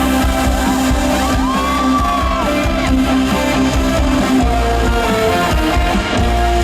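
Live band playing an instrumental passage of a pop song over a big hall's amplification, with guitar and a steady bass, and a gliding lead note about one and a half seconds in.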